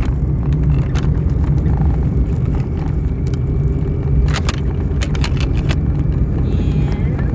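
Steady low rumble of a car's engine and tyres heard from inside the cabin while driving, with a few sharp clicks and rattles from loose items.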